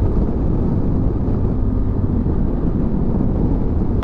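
Motorcycle engine running steadily at road speed, mixed with the rush of wind over the helmet microphone.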